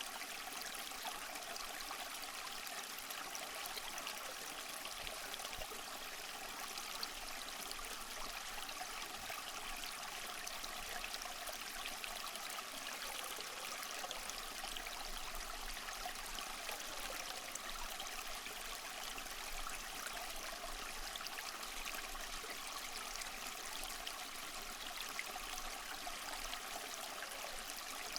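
Flowing water rushing and trickling steadily, without the rise and fall of breaking waves.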